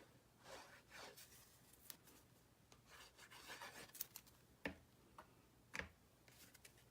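Faint rustling and rubbing of cardstock being handled and pressed down on a work surface, with two light taps about a second apart past the middle.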